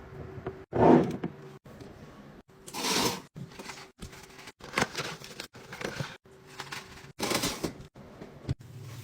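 Packaging and containers being handled and set into a fridge: rustling, with light knocks and clatter, the loudest about a second in. The sound comes in short snippets that cut off abruptly about every half second.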